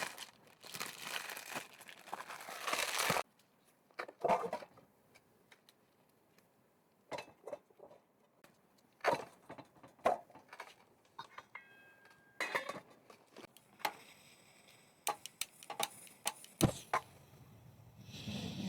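Objects being handled by hand: a stretch of rustling and crinkling for the first three seconds, then scattered clinks, taps and knocks, one or two with a brief metallic ring.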